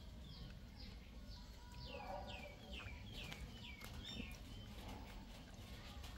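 A bird calling a quick series of faint, short high chirps, each falling in pitch, about three a second, stopping about four seconds in.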